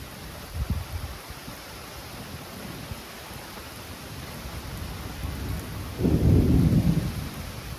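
Steady rain under low rolling thunder, with a brief louder rumble about half a second in and a stronger, deep rumble about six seconds in that lasts about a second.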